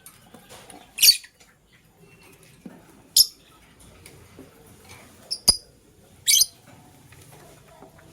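Lovebirds giving short, shrill, high-pitched chirps, four or five spaced a second or two apart, the first one the longest. There is a single sharp click about five and a half seconds in.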